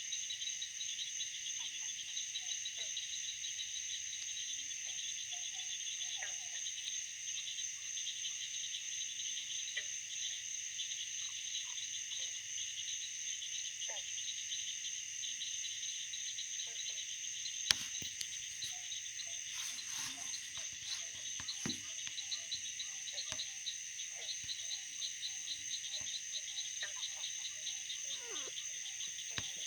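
A chorus of insects trilling steadily, high-pitched and finely pulsing, with faint short lower calls scattered through it that fall into a regular series in the second half. A single sharp click sounds once, about two-thirds of the way through.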